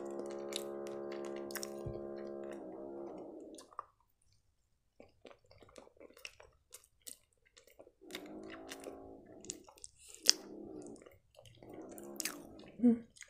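Close-miked chewing of flaky strudel pastry, with wet mouth clicks. A long closed-mouth "mmm" hum comes at the start, and shorter hums come later.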